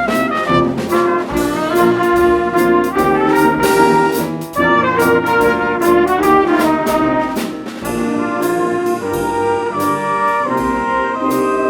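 High school band playing live, with trumpets and trombones carrying a moving melody over regular drum and cymbal hits.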